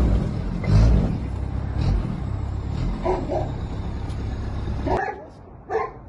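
Vehicle engine running with a heavy low rumble and revving. It cuts off abruptly about five seconds in, and a dog gives a few short yaps near the end.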